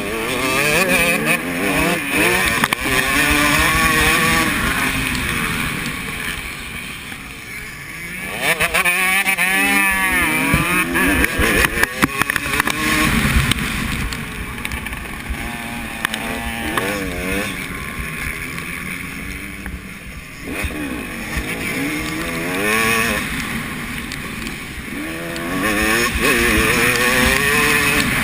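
Several motocross bikes racing on the track, their engines revving up and down as they accelerate and brake through the corners, with overlapping pitches rising and falling as bikes pass.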